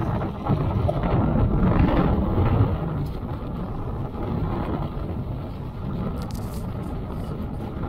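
Wind buffeting the microphone, a dense low rumble that is strongest in the first few seconds and then settles to a steady level.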